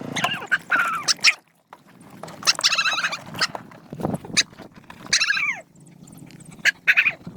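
Dogs whining and yelping in a series of high calls, some sliding down in pitch, with short clicks and knocks between them.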